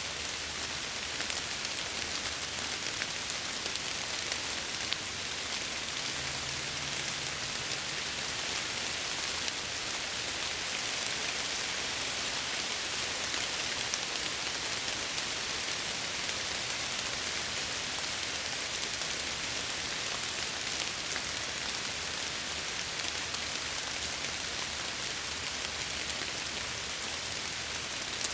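Steady rain pattering against a window, an even hiss with scattered light drop ticks.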